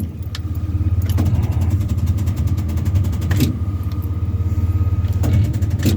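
A 1979 Chevy K20 pickup's starter cranking the engine over steadily, with a rapid, even pulsing and a few sharp clicks, without the engine catching. This is a cold-start attempt on a truck whose battery the owner suspects is too weak.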